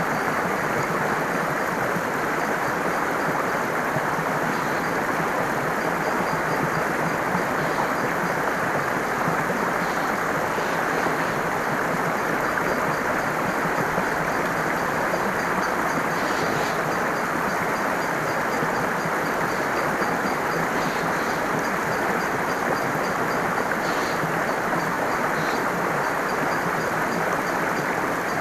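Flowing water rushing steadily, with faint high bird chirps here and there.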